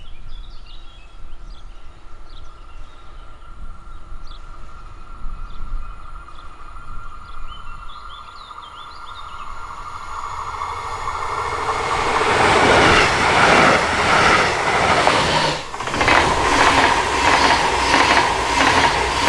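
Small birds chirping over quiet outdoor ambience, then a train approaches and passes close by from about ten seconds in. A loud rush of wheels on rails follows, with a rhythmic clatter as the wheels cross the rail joints.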